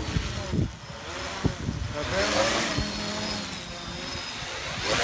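Homemade multirotor drone's electric motors and propellers whining, their pitch wavering up and down, with heavy wind buffeting the microphone.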